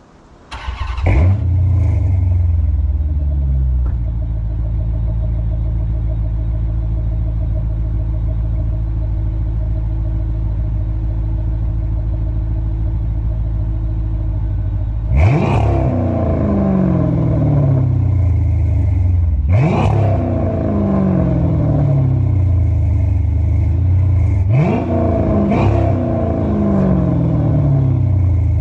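2006 Dodge Charger R/T's 5.7 Hemi V8 with its mufflers deleted, warm-started: it catches about a second in with a brief flare, then settles to a steady idle. About halfway through it is revved sharply, again a few seconds later, and then twice in quick succession, each rev dropping straight back to idle.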